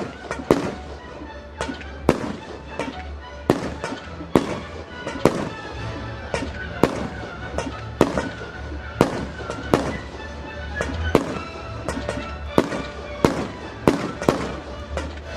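Fireworks mortar shells and firecrackers going off in a continuous show: sharp bangs at an irregular pace, about one every second or less, over a steady low rumble.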